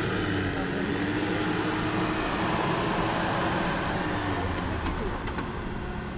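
A 4x4's engine running, its pitch wavering slightly as the load changes, a little quieter near the end.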